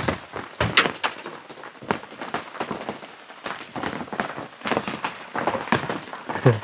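Irregular taps and knocks over a faint steady hiss of falling rain.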